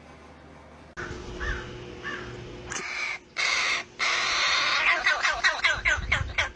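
Harsh animal calls: three short calls, then a loud, rough run of calls that quickens toward the end.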